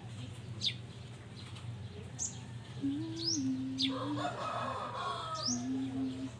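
Small birds chirping with short, sharp sweeping calls, and a rooster crowing about four seconds in. A steady low hum runs underneath.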